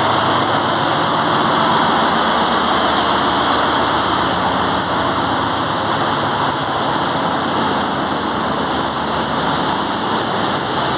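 Loud, steady machinery noise of a bulk carrier's engine room, with diesel engines and pumps running together and no single machine standing out.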